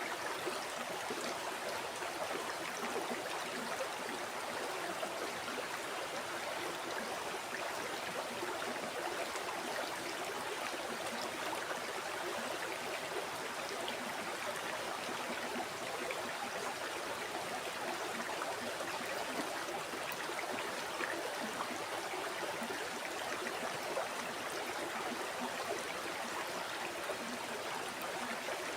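River water flowing over rocks, a steady babbling and rushing with no change in level.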